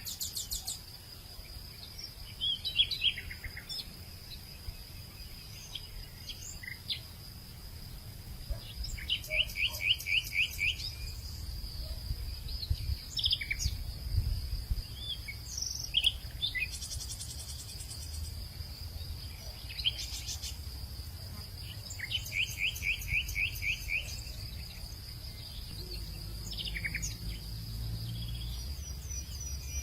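Birds calling over a steady high insect drone. A rapid trill of about ten quick notes comes twice, about nine seconds in and again about twenty-two seconds in, among scattered short chirps and whistles, with a faint low rumble underneath.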